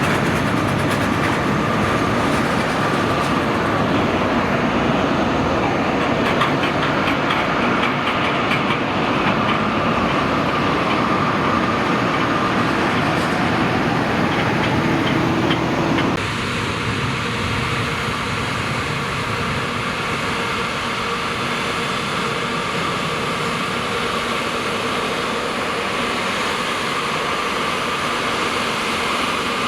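Jet airliner engines running, a steady noise with a faint whine on top. About 16 seconds in it drops suddenly to a quieter, steady engine noise.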